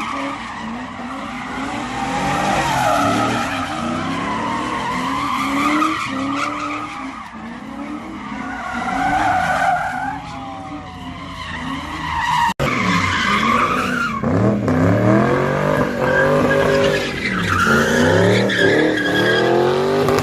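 Car tires screeching without a break while the engine revs up and down again and again, typical of a car spinning donuts at a street sideshow; the revving grows more pronounced in the second half.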